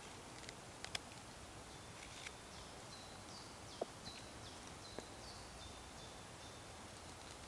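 A bird singing faintly, a run of about a dozen quick, high repeated notes through the middle. It sits over a steady background hiss, with a couple of sharp clicks near the start.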